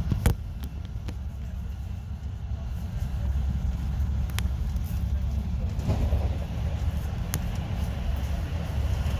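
A moving regional train heard from inside: its wheels on the rails make a steady low rumble, broken by a few sharp clicks. Near the end another train passes close alongside.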